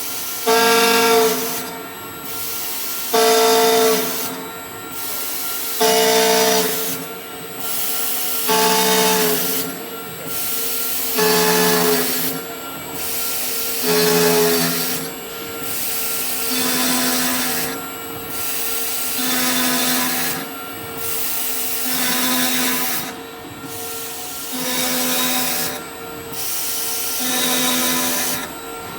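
CNC drilling and milling machine working aluminium profiles in repeated short cycles: a steady spindle whine with cutting noise on top, briefly easing about every two seconds between operations.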